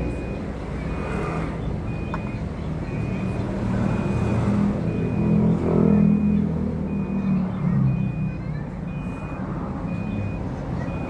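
A motor vehicle's engine running with its reversing alarm beeping steadily, about twice a second; the engine grows louder around the middle.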